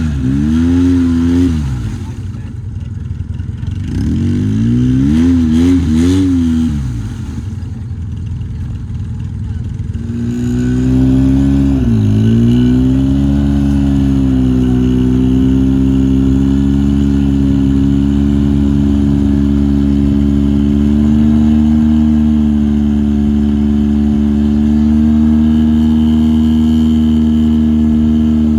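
Side-by-side UTV engine revving up and down twice, then from about ten seconds in held at steady high revs, with a brief dip soon after.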